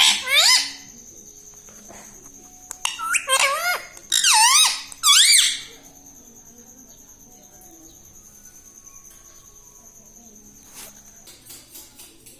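Ring-necked parakeet giving a run of shrill squawks with sweeping, rising-and-falling pitch, once at the start and again in two bunches between about three and five and a half seconds in. It then falls quiet, with a few faint clicks near the end.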